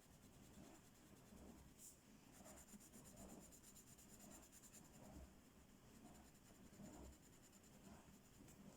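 Faint strokes of a colouring tool rubbing on a coloring-book page, a soft stroke roughly once or twice a second.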